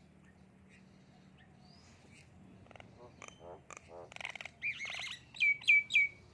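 Birds calling while fighting: a quickening run of rasping, buzzy calls, ending in three loud, sharp chirps that fall in pitch.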